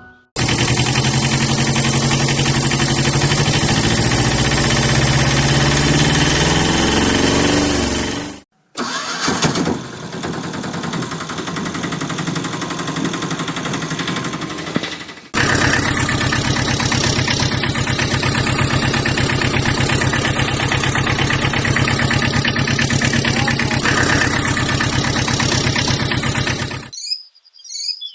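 Engine starting and running with an even beat. It cuts off sharply about eight seconds in, comes back quieter, is loud again from about fifteen seconds, and stops near the end.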